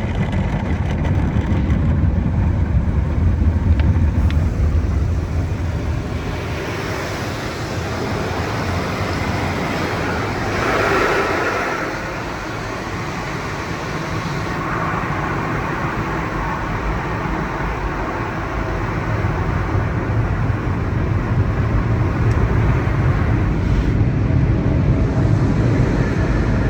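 Tunnel car wash equipment running, heard from inside the car: a steady low rumble, with a louder rushing hiss for several seconds in the middle.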